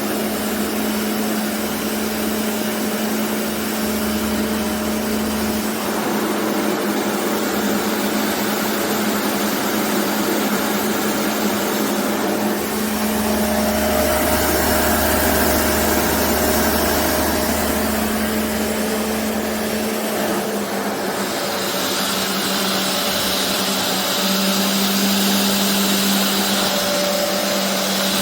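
Upright carpet cleaner's suction motor running steadily with a constant hum and a loud airy hiss. The tone shifts several times, and a brighter hiss comes in about two-thirds of the way through.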